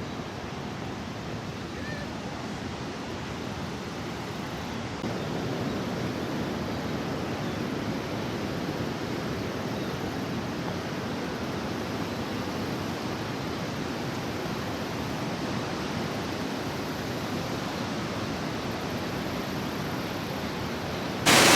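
Steady rushing of Niagara Falls' falling water, growing slightly louder about five seconds in and jumping sharply louder just before the end.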